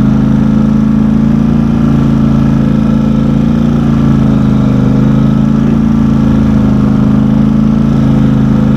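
Four-wheel-drive utility vehicle's engine running steadily while driving at an even pace, a loud low drone whose pitch rises and falls slightly.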